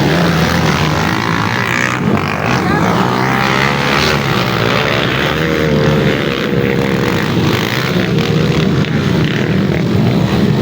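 Dirt bike engines running at a motocross track, a loud continuous drone whose pitch wavers up and down as the bikes rev.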